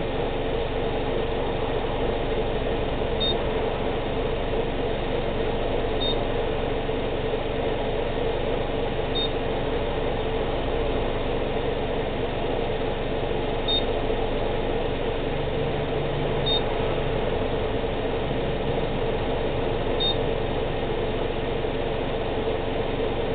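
2012 Subaru Outback's flat-four engine idling steadily, run to warm the CVT fluid up to checking temperature. Short high beeps sound every few seconds over it.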